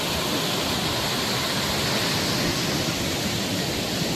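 Arabian Sea surf washing onto a sandy beach: a steady, unbroken rush of breaking waves.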